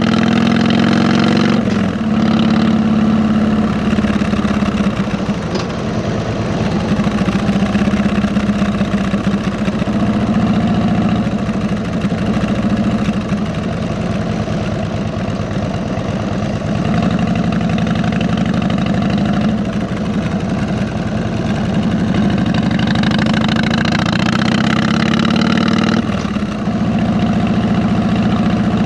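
Harley-Davidson V-twin motorcycle engine running steadily through fishtail mufflers. Its pitch glides in the first two seconds and shifts again near the end.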